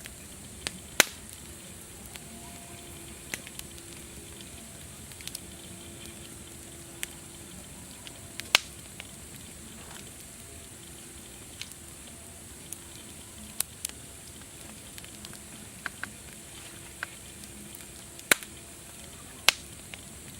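Wood fire crackling: sharp pops at irregular intervals over a steady soft hiss, a few of them much louder than the rest.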